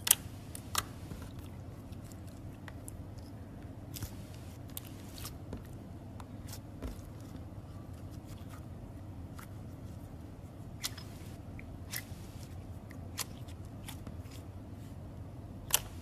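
Slime being handled, giving scattered sharp clicks and pops at irregular moments over a steady low hum, the loudest click just after the start and another near the end.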